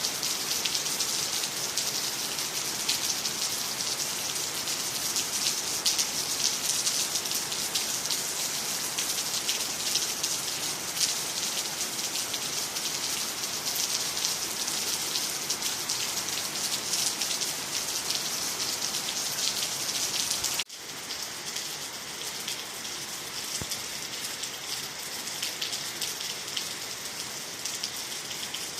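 Steady rain falling, with a dense patter of individual drops. About two-thirds of the way through it cuts abruptly to a slightly quieter stretch of rain.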